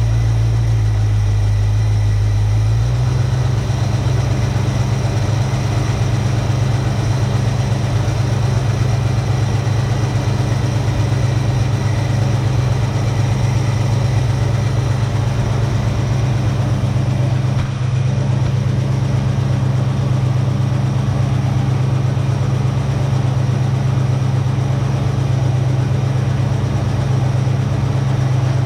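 1966 Ford Mustang's carbureted engine idling steadily after its first start in years, its idle speed picking up slightly about three seconds in.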